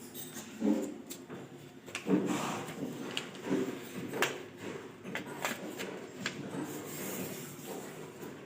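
A sheet of paper being handled, folded and creased by hand: irregular rustling, rubbing strokes and small crinkling clicks.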